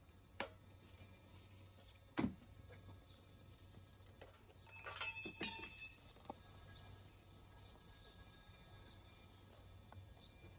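Handling of a bee smoker being lit: a click, a single knock about two seconds in, then a short burst of rattling and clicking around five seconds in.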